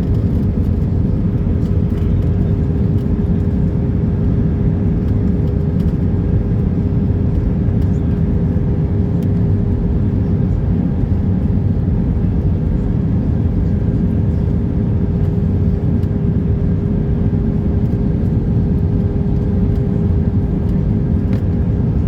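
Airbus A319 passenger-cabin noise in flight: a steady low rush of airflow and engines with a constant hum, unchanging throughout.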